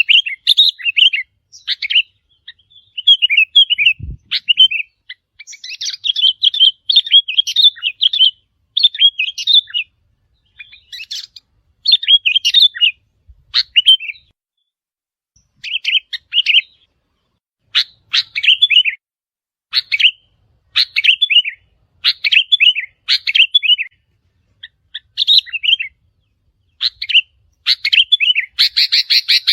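Sooty-headed bulbul song: short phrases of quick, bubbly chirping notes, repeated every second or two with brief pauses between them.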